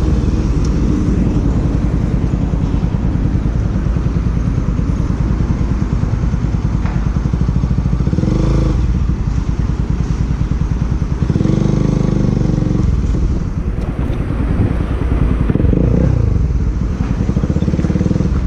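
Motorcycle engine running on the road under a steady low rumble, its note swelling and gliding a few times as the rider works the throttle.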